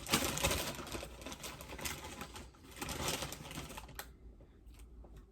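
Crunching of a crisp tostada shell being bitten and chewed close to the microphone: dense crackling, heaviest at the start and again about three seconds in, then thinning out, with a single sharp click about four seconds in.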